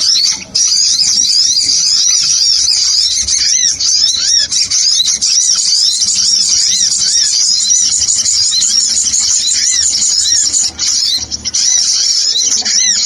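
A lure recording of small sunbirds (sogon/kolibri) calling: a dense, continuous chatter of rapid, high, thin chirps, several birds at once, with a brief break about eleven seconds in.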